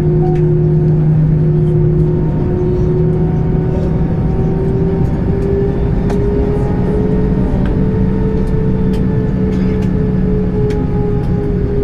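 Airbus A320's engines humming steadily, heard from inside the cabin over a low rumble; the middle tone drifts slightly up in pitch partway through.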